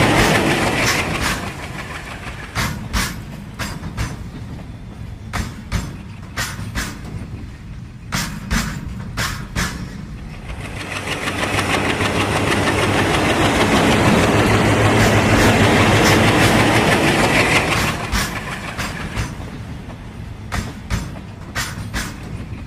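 A train rolling by with a clickety-clack of wheels over rail joints, the clicks often coming in close pairs. A rumble fades at the start, swells again for several seconds in the middle as a locomotive goes past, then gives way to the clicking of wagons.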